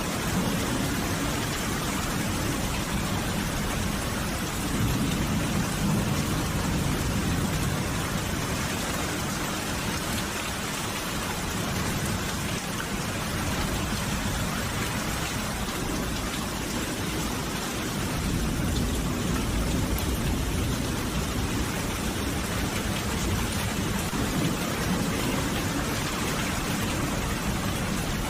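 Steady rain falling, with a low rumble of thunder swelling a few times underneath.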